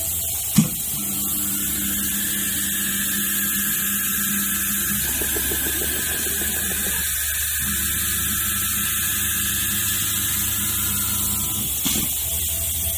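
Spindle of an STM6090C CNC router running with a steady whine. A sharp click comes about half a second in and another near the end, with a rougher patch in the middle.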